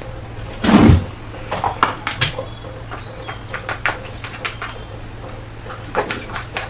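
Metal spoon and utensils clinking and tapping against steel cookware while spices are measured in, a scatter of sharp clicks with a louder knock about a second in, over a steady low hum.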